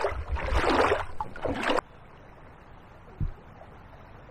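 Water sloshing in about three surges, like strides wading through floodwater, that cut off abruptly a little under two seconds in. A faint steady rush of water follows, with one short low thump.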